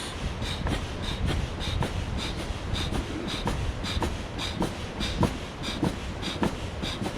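A machine running with a regular chuffing beat, a little under two strokes a second, over a steady low rumble.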